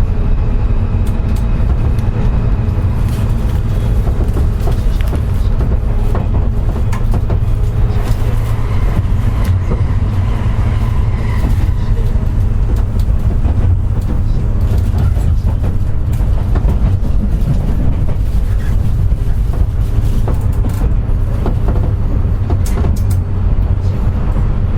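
Running noise inside a JR West 201 series electric train's motor car, with armature chopper control, moving slowly. A steady low rumble with faint steady tones above it and irregular short clicks from the wheels and track.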